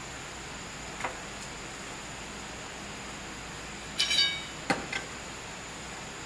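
A few sharp knocks over a steady hiss: one about a second in, then a short ringing clink about four seconds in, followed quickly by two more knocks.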